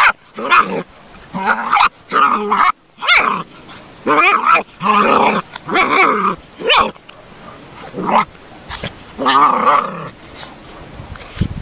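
A dog vocalizing in a run of short pitched calls, roughly one a second, with a longer pause near the end.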